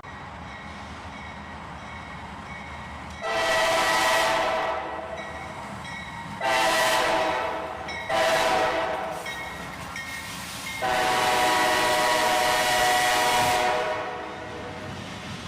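Diesel locomotive air horn sounding four blasts, long, long, short, long, the grade-crossing signal of an approaching train. The last blast is the longest, about three seconds.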